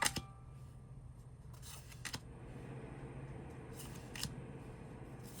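Tarot cards being handled: a few short, light clicks and snaps of card stock, two at the start, two about two seconds in and one more about four seconds in, over a faint steady hum.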